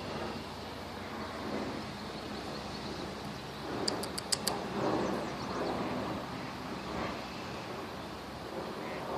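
Steady outdoor background noise. A little under four seconds in comes a quick run of four sharp clicks.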